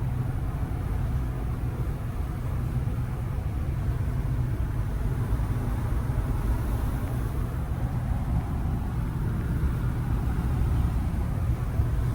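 Pickup truck driving at a steady speed: a constant low rumble of engine and tyres on the road.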